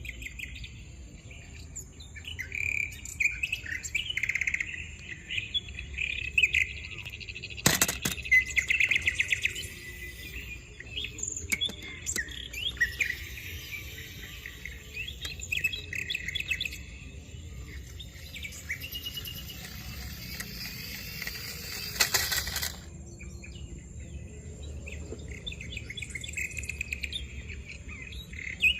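Small birds chirping and twittering in quick, repeated calls over a steady, high, insect-like whine. There is a sharp knock about eight seconds in and a short burst of hiss around twenty-one seconds.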